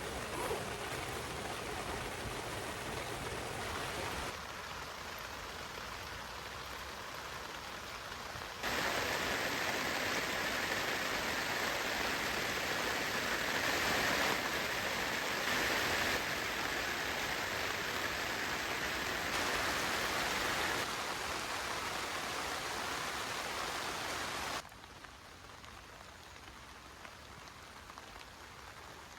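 Steady rain falling, in several stretches cut together: the level jumps up about eight seconds in and drops off sharply near the end.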